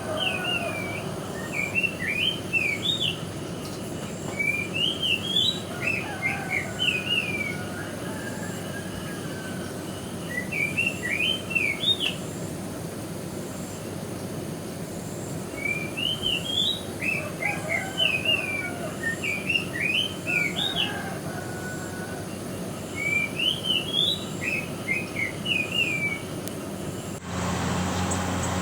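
A songbird singing repeated phrases of quick rising and falling whistled notes, about five phrases a few seconds apart, over a steady rush of water.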